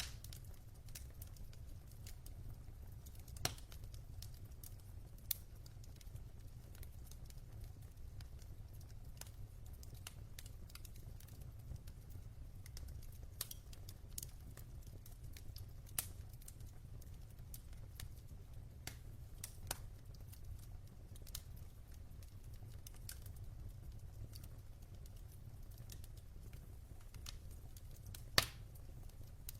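Wood logs burning in a fireplace: sparse, irregular crackles and pops over a faint, steady low rumble, with the sharpest pop near the end.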